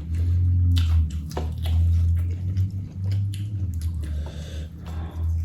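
Close-miked chewing and biting of spicy chicken, with many short sharp clicks over a steady low hum.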